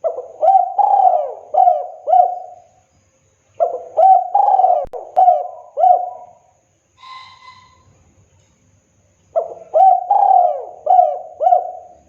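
Spotted dove (tekukur) singing its cooing song: three phrases of about five rolling coos each, with pauses between them. A fainter, short, higher call comes between the second and third phrases.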